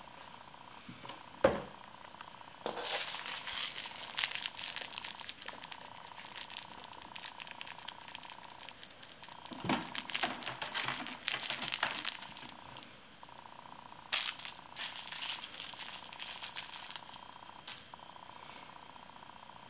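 A thump about a second and a half in, then long stretches of crinkly rustling and scratching, with a faint steady whine underneath.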